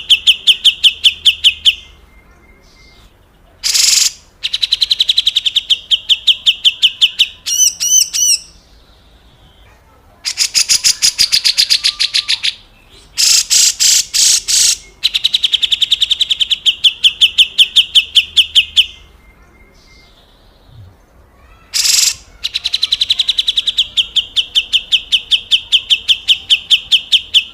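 Grey-cheeked bulbul (cucak jenggot) giving its harsh, rattling 'besetan kasar' call: repeated bursts of two to three seconds, each a fast run of raspy notes, with short pauses and a few brief sharp calls between them.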